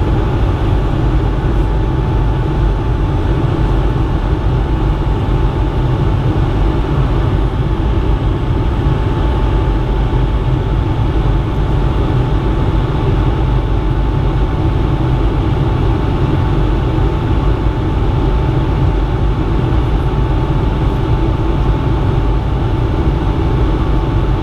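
Cabin noise inside a Bombardier CS100 (Airbus A220-100) in flight: a steady, loud rush of airflow and Pratt & Whitney PW1500G geared-turbofan engine noise with a constant mid-pitched whine.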